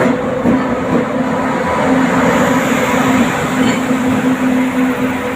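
Express passenger train hauled by a WAP-7 electric locomotive running along the track, a steady noise with a continuous low hum.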